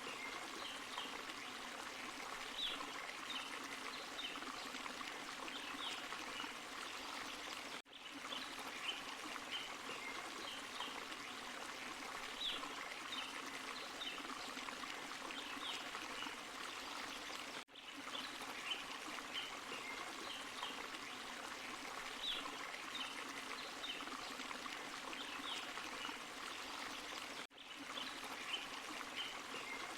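Small forest waterfall and stream running steadily, with short high notes scattered over the rush of water. The sound drops out for an instant three times, about every ten seconds, where the recording loops.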